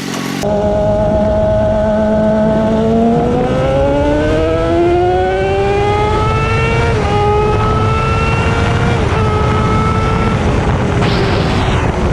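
Crosskart's sportbike (crotch rocket) engine pulling hard under acceleration: its pitch climbs steadily through the revs, with two quick upshifts about seven and nine seconds in, then holds and eases off slightly near the end.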